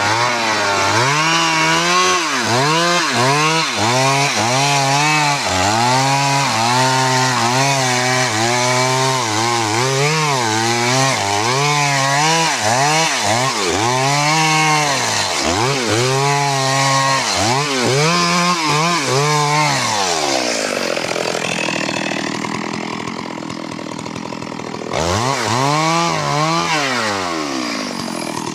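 Stihl MS 382 two-stroke chainsaw running, its engine pitch rising and falling about once a second. About two-thirds of the way in the pitch sinks and the saw goes quieter for a few seconds, then it picks up again suddenly near the end.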